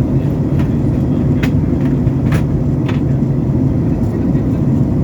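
Steady low roar of an airliner's engines and airflow heard inside the cabin during descent, with a few short clicks about one and a half to three seconds in.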